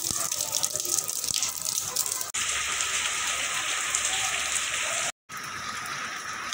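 Heavy rain pouring down and splashing on the ground. It comes in short clips joined together, so the rain's sound changes abruptly about two seconds in and again about five seconds in, with a brief gap at the second change.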